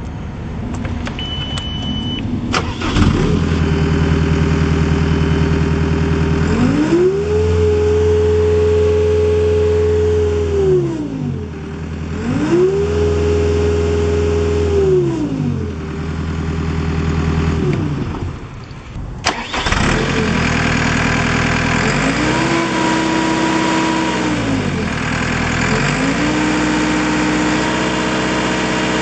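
Volvo MCT125 tracked skid steer loader's diesel engine starting about three seconds in, after a short beep, then idling. It is revved up and back down four times: two long high revs, and after a break two shorter, lower ones.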